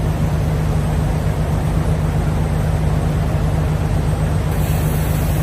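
Diesel engine of a semi-truck with vertical exhaust stacks idling, a steady low drone.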